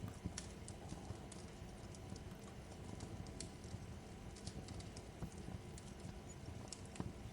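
Wood fire crackling in a fireplace: a steady low rumble of the flames with irregular sharp snaps and pops scattered throughout.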